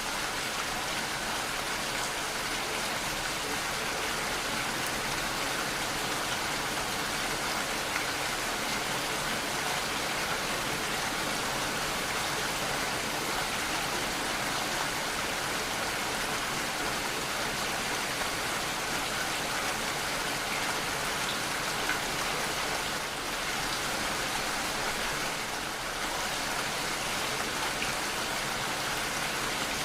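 Steady, dense rainfall, with scattered drops ticking on surfaces.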